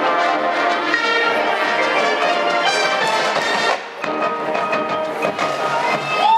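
High school marching band playing, the brass (trumpets and trombones) sounding full held chords over percussion. Partway through, the sound briefly drops away, then the full band comes back in.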